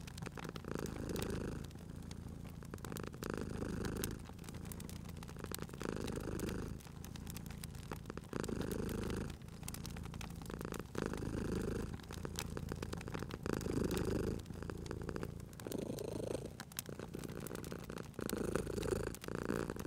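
A cat purring in steady in-and-out cycles, a swell about every two seconds, over the small snaps and crackles of a wood fire.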